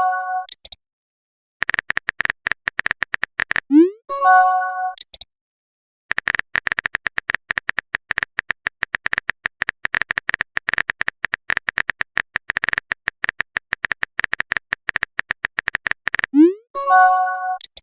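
Rapid runs of phone-keyboard typing clicks, as messages are typed out. Twice, about four seconds in and near the end, a short rising swoop and a brief chime sound: a message sent or received.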